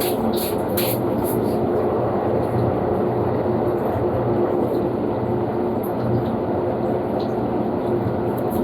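Panasonic washing machine running in blanket mode: a steady motor hum over a constant rushing, churning noise.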